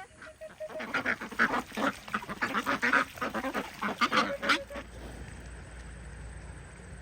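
Domestic waterfowl calling in a rapid, excited flurry of short calls for about four seconds, then stopping, leaving a steady low background noise.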